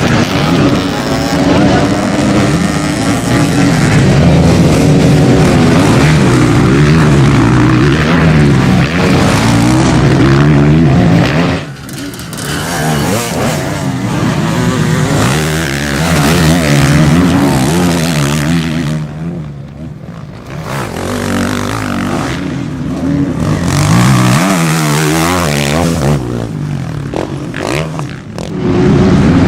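Motocross bike engines revving hard and dropping off repeatedly as riders race round the track, with brief quieter lulls about twelve and twenty seconds in.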